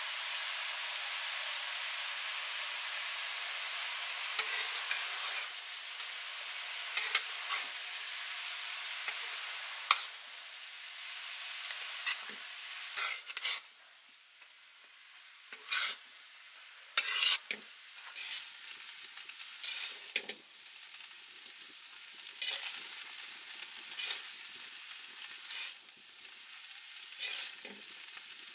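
Noodles frying in a steel wok, with a steady sizzle and irregular metallic scrapes and clinks as a metal spatula and tongs toss them. The sizzle is strongest at first and grows quieter about halfway through.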